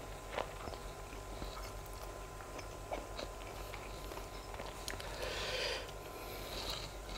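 Close-miked mouth sounds of a person chewing grilled sausage, with scattered short wet clicks, and a brief rustle about five seconds in as a sausage skewer is handled. A faint steady hum runs underneath.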